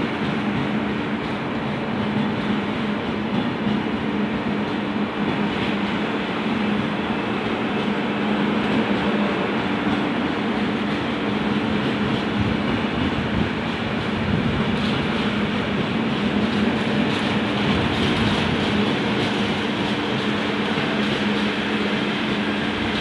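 Passenger coaches of an Indian Railways express train rolling past close by: a steady wheel-on-rail rumble with a constant hum under it.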